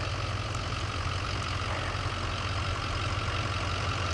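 A motor vehicle's engine running steadily at idle, a low even hum with a constant wash of noise over it.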